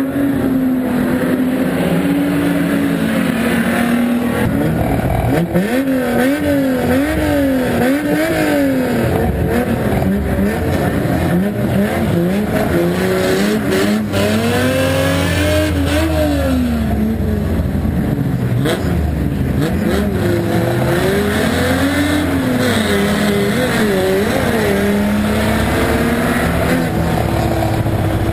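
Volvo estate banger's engine heard from inside its stripped cabin while racing, revving up and falling back again and again as the driver works the throttle, with a few sharp knocks.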